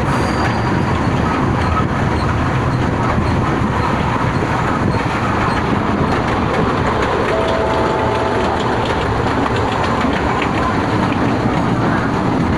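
Kurobe Gorge Railway's narrow-gauge trolley train running: a steady rumble and rattle of the wheels on the rails and the car body, heard from inside an open-sided carriage.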